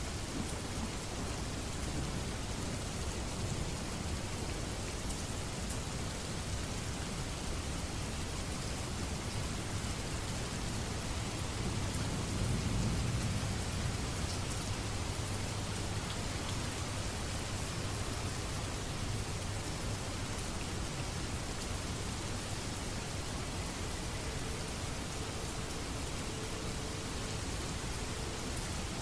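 Steady rain falling, an even hiss of many drops, with a low rumble swelling briefly about halfway through.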